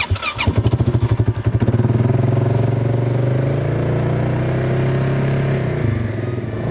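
Engine of a small snow-plowing machine running, with rapid uneven pulsing for the first second or so, then running steadily.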